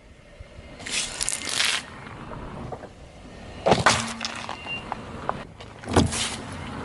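Car tyre rolling over and crushing objects: a drawn-out crunching about a second in, then sharp cracks with a low thump near four seconds and again near six seconds.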